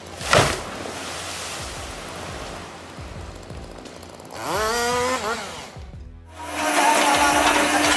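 Motor-driven saw: a thump, then a rising whine as it revs up, and near the end it runs steadily at speed, with a chainsaw-like sound.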